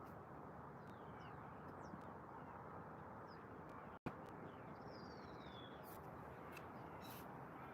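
Faint distant bird calls: a few short falling chirps and, about five seconds in, one longer falling whistle, over a steady low outdoor background hum.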